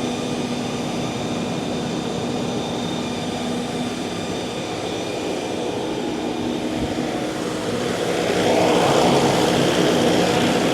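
Multiquip Whisperwatt DCA-70 generator's Isuzu 4JJ1X turbocharged four-cylinder diesel running at a steady constant speed, a hum made of several even tones. About eight seconds in, a louder rush of air and engine noise builds and holds.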